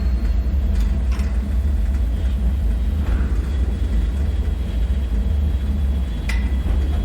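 Steady deep rumbling drone of a bunker ambience soundscape, with a few faint sharp clicks about a second in and again near the end, and a faint thin high tone from about halfway.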